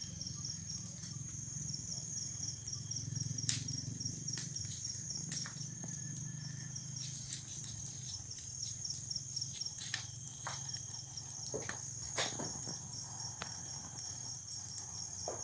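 Crickets chirring steadily in a fast, high-pitched trill, with scattered sharp crackles and pops from a large wood bonfire burning.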